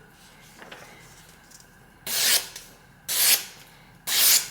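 A freshly sharpened kitchen knife slicing through paper as a sharpness test: three short, hissing strokes about a second apart.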